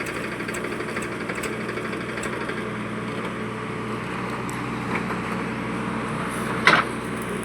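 Powertrac 50 tractor's diesel engine running steadily, with a single sharp knock near the end.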